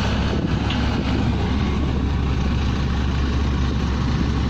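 Pneumatic drilling rig running: a loud, steady machine noise with a strong low drone.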